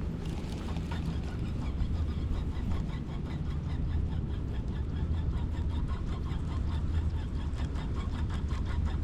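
Fishing reel being cranked to retrieve a lure: a fast, even run of fine ticks over a steady low rumble.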